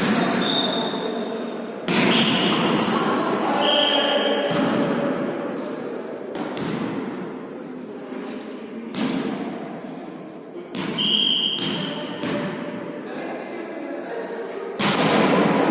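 A ball being struck and bouncing during volley tennis play: a series of thuds a couple of seconds apart, each ringing on in an echoing hall, with a few short high squeaks in between.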